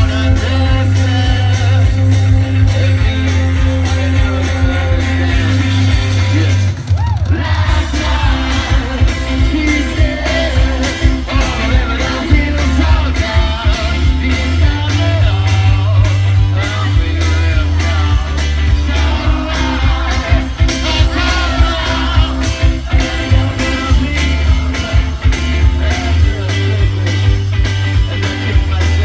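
Live rock band playing a song, with electric guitars, bass, drums and a singer. The bass and drums drop out briefly about seven seconds in, then the full band comes back in.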